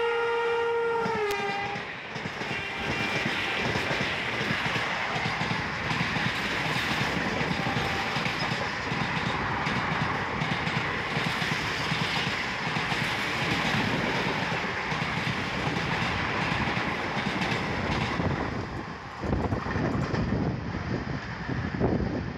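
A passing express train sounds its horn, which drops in pitch as it goes by and cuts off about a second in. Then comes a long, loud rush and rattle of its coaches racing past close alongside, ending abruptly near the end, when only gusty wind noise is left.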